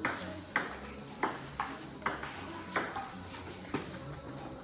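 About seven sharp metallic clinks at irregular spacing, roughly every half second to a second, each with a short bright ring, like a metal utensil striking metal cookware.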